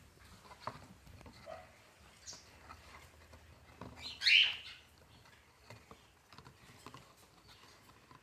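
Parrots squabbling over a box: light scattered taps and scratches, a faint short call just after two seconds, and one loud short squawk about four seconds in.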